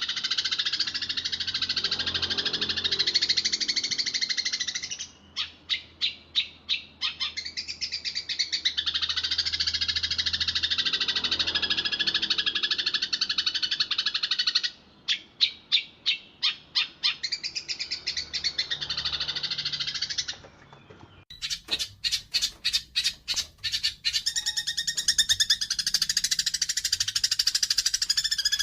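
Eurasian tree sparrows chattering in a dense, rapid stream of high chirps, the agitated calls of sparrows fighting. Twice the chatter breaks into a run of separate chirps, about six a second, and near the end it switches to a brighter recording of the same chatter.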